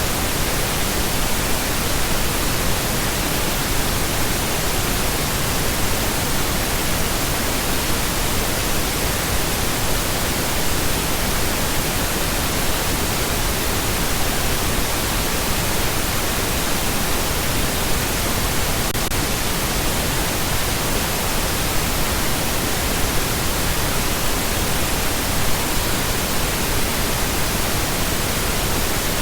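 Steady synthetic pink noise: an even, unchanging hiss spread across all pitches, with more weight in the lows than white noise.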